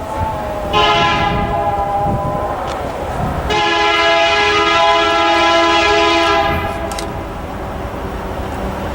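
Freight diesel locomotive's multi-chime air horn sounding two blasts, a shorter one about a second in and a longer one of about three seconds, over the rumble of the passing train.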